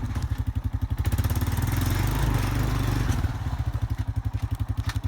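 Vehicle engine running at low speed with a rapid, even low pulsing; it eases off somewhat near the end.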